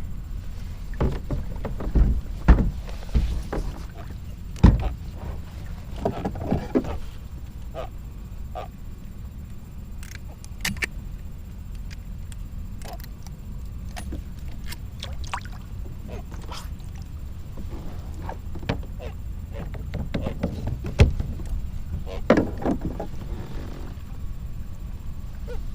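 Knocks and thumps against a kayak's hull as a freshly caught blue catfish and fishing gear are handled on board, with a scatter of short clicks and a steady low rumble underneath.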